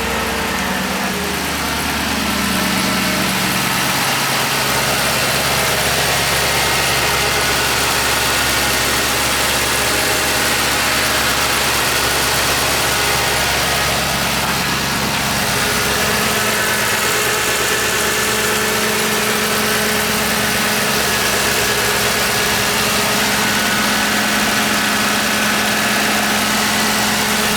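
2009 Ford Crown Victoria Police Interceptor's 4.6-litre V8 idling steadily through its factory exhaust, which still has all four catalytic converters.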